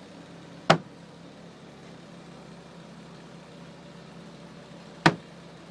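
Caterpillar 3116 diesel engine idling steadily, with two sharp knocks, one near the start and one near the end.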